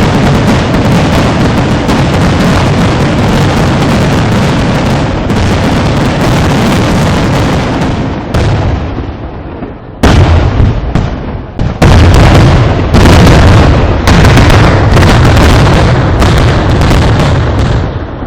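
Fireworks display: a dense, rapid barrage of very loud firework explosions, bangs coming almost without gaps. The barrage dies away about eight seconds in, then starts again with a sudden loud burst about ten seconds in and carries on as thick as before.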